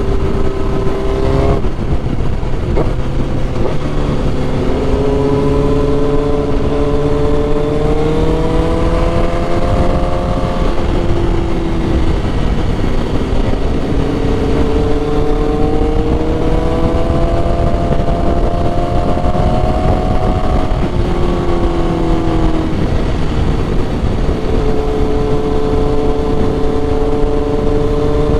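Motorcycle inline-four engine under way on the road, its note climbing slowly with speed and dropping back at each gear change, several times, over steady wind rush.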